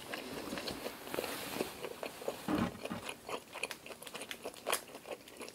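Close-miked eating sounds: wet chewing clicks from a mouthful of black tiger shrimp, and the shell crackling as a shrimp is peeled by hand. These come as many quick, irregular clicks.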